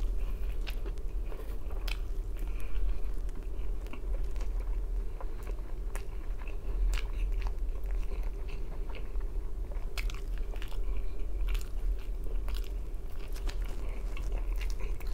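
A person biting into and chewing thin-crust pizza, with irregular crunches and mouth clicks. A steady low hum runs underneath.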